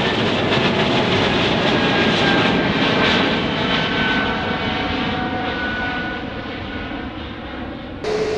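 Jet airliner engines passing close: a loud rush of noise with faint whining tones that slide slowly down in pitch, fading over the last few seconds, then cut off abruptly near the end by a different, steadier engine sound with a constant hum.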